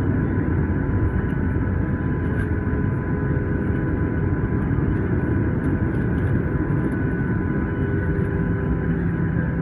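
Cabin noise inside a Boeing 737-900 on the ground after landing: a steady low rumble from the engines and the rolling airframe, with a few faint steady whine tones. A low steady hum comes in near the end.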